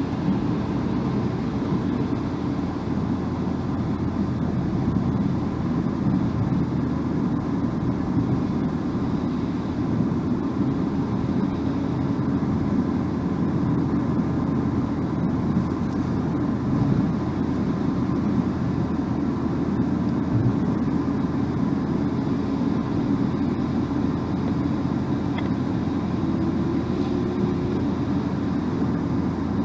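Steady road and tyre noise with engine hum from a car driving at speed, a continuous low rumble without breaks.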